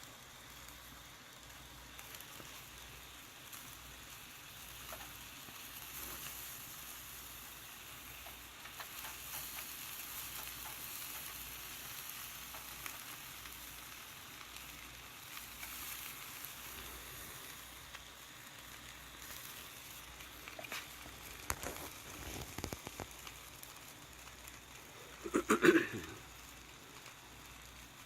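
Meat sizzling on a grill over a charcoal fire pit, a steady hiss with faint ticks. A short, louder clatter comes about three seconds before the end.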